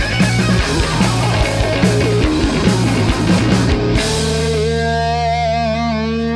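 Punk rock band playing live: drums, electric guitar and bass together for about four seconds, then the drums stop and a held chord rings out with wavering notes.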